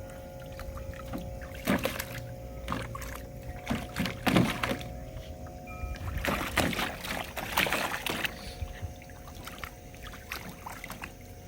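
Water splashing in a small pool in several irregular bursts as a dog moves through it, over running water and a steady hum.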